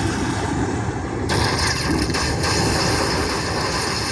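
Slot machine bonus sound effect: a steady rushing noise, with no tune, that grows brighter and louder about a second in and fades near the end.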